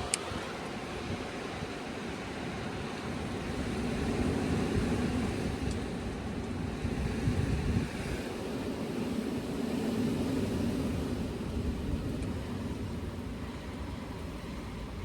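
Blizzard wind gusting hard, a rushing roar that swells about four seconds in and again about ten seconds in.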